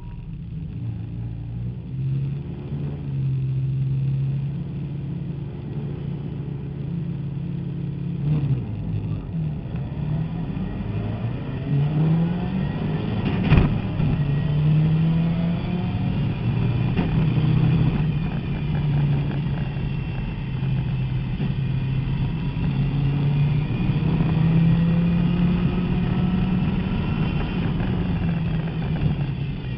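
Nissan 200SX race car's turbocharged engine heard from inside the cabin, pulling away from the start and accelerating hard, its pitch climbing and falling back at each gear change. A single sharp knock stands out about halfway through.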